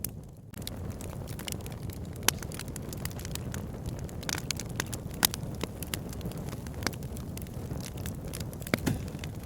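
Wood fire in a fireplace crackling: a steady low rumble of flames with sharp pops of burning logs every second or so, the loudest about two, five and nine seconds in.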